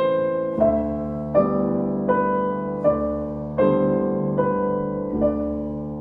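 Slow, soft solo piano music: single notes and chords struck about once every three-quarters of a second, each left to ring and fade.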